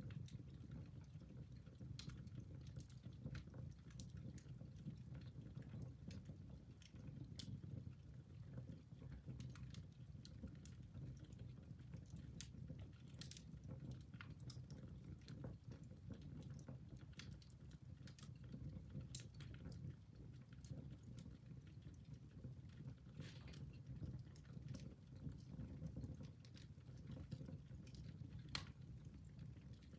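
Wood fire burning in a fireplace: irregular sharp crackles and pops from the burning wood over a low, steady sound of the flames.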